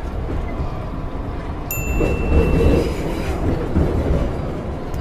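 Subway train running with a steady low rumble, with a brief high-pitched tone about two seconds in.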